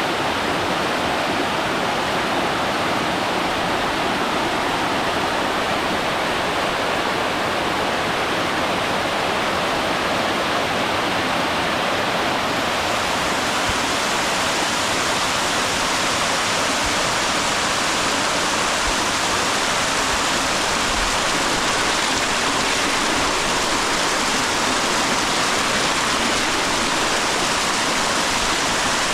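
Waterfall: water falling and splashing in a steady rush that gets brighter and hissier about twelve seconds in.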